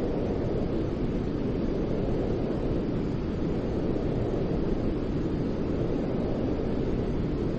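Steady white noise for soothing a baby: a continuous, even hiss weighted toward the low end, so it sounds deep and rumbling rather than bright.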